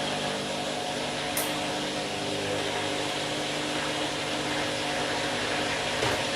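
Candy washing machine running an empty bleach wash: a steady motor hum with several steady tones over a hiss, a short high tick about a second and a half in, and a dull knock near the end.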